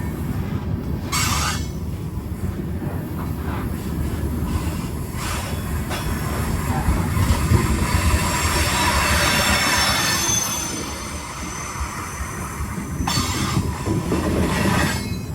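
Freight train rolling on the rails: a steady low rumble, with a high squealing from the wheels through the middle.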